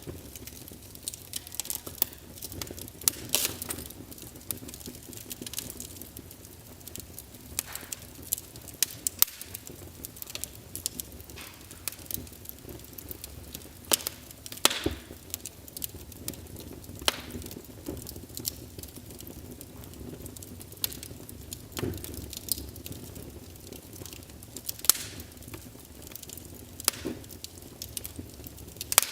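Small wood fire burning in a fireplace: a steady soft hiss with irregular crackles and occasional sharper pops.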